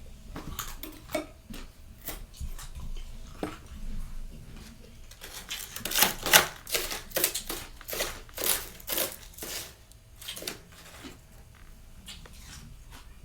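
Freezer frost being bitten and chewed, a quick run of crisp crunches that is sparse at first, densest and loudest around the middle, then tails off near the end.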